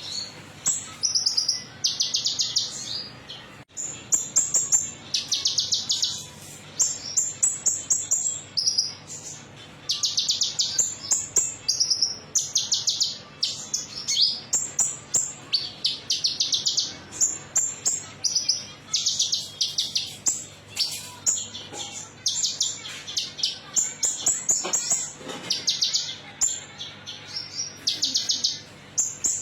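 A small songbird, the konin metalik, singing: short bursts of rapid, high-pitched chirps and trills, one phrase after another all through.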